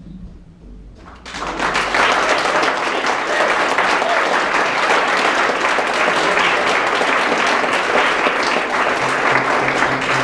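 Audience applauding. The clapping breaks out about a second in as the song ends, then holds steady.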